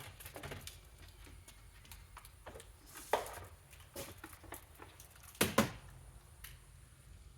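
Scattered knocks and clicks of handheld vacuum parts being handled, with a sharper knock about three seconds in and the loudest pair about five and a half seconds in.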